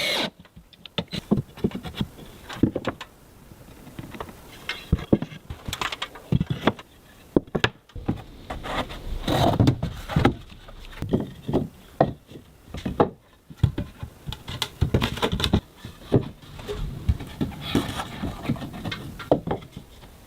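Carpentry work with hand tools on timber: irregular knocks, taps and clatter of wood and tools, with rubbing and scraping between them.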